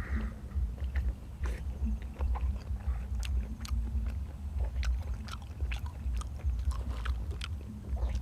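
Close-miked chewing: wet mouth clicks and smacks coming irregularly, several a second, over a steady low rumble.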